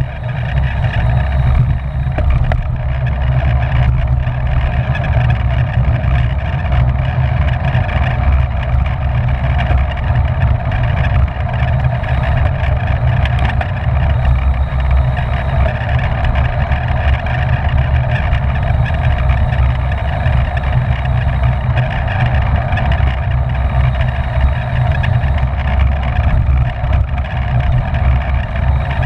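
Steady, loud wind rush and rumble over the microphone of a camera riding on a racing bicycle at speed, with a constant hum from the tyres and drivetrain.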